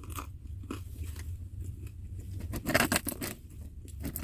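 Crunchy food being bitten and chewed close to the microphone, with the loudest cluster of crunches a little under three seconds in, over a steady low hum.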